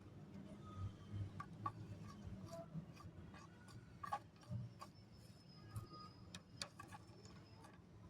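Scattered light clicks and ticks of small dry namkeen snack pieces being picked up and set down while they are sorted by hand. They come irregularly, and a few have a brief ring.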